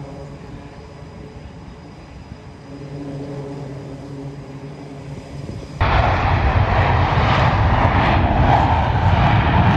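Military jet aircraft engines: a steady low hum with a few held tones, then about six seconds in a sudden jump to a loud, rushing jet roar.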